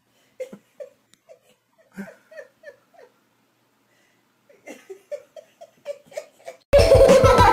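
A person giggling in two runs of short, quick bursts, with a pause between them. Loud music starts suddenly near the end.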